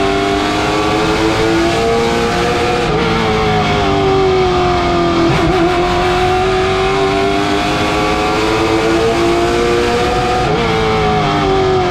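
Late model stock car's V8 engine running at racing speed, its pitch rising and falling as the car laps the track.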